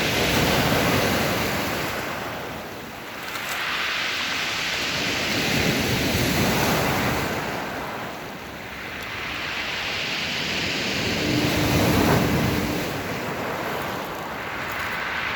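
Heavy surf from a rough sea, the wash of the breaking waves swelling and ebbing every five or six seconds, with wind on the microphone. About eleven seconds in, the lighthouse's horn sounds one steady low note for about a second and a half.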